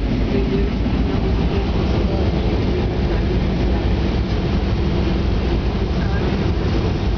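Steady, loud low rumble of a Gol passenger jet, unbroken throughout.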